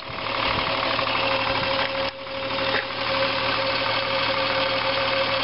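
1977 Triumph 2000TC's two-litre straight-six idling steadily while still cold, just after a cold start, with a steady hum running over it.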